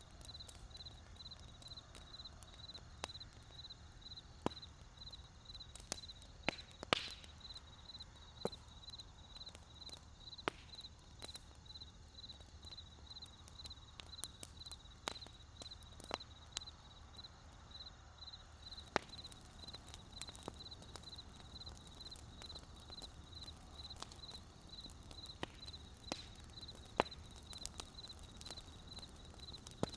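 Wood fire crackling, with scattered sharp pops and snaps at irregular intervals, a few louder ones along the way. Behind it a high, evenly pulsing insect chirp runs steadily over a faint low rumble.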